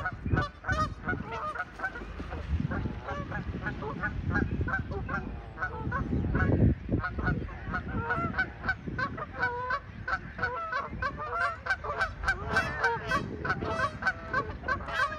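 A flock of Canada geese honking, many short calls overlapping without a break, over a low rumble.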